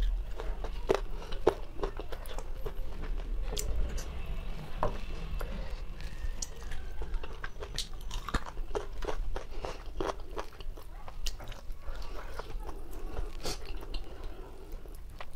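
A person biting and chewing pieces of whole roast chicken, with many short sharp mouth clicks throughout.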